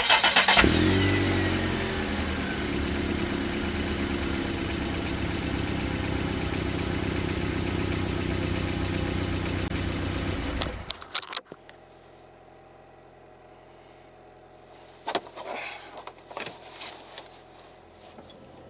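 Toyota Esquire minivan's engine starting and then running steadily at idle. It cuts off suddenly after about ten seconds, leaving a few faint knocks and clicks near the end.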